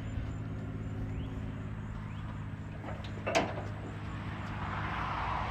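An engine running steadily at idle, with a single knock about three seconds in and a hiss building near the end.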